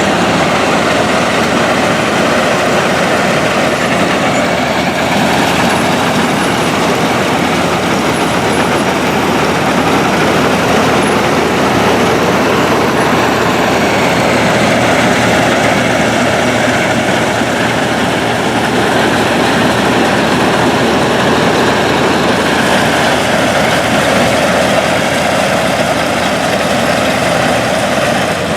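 Farm harvesting machinery running steadily and loudly: engine and working mechanism with an even, dense rumble and no breaks or changes.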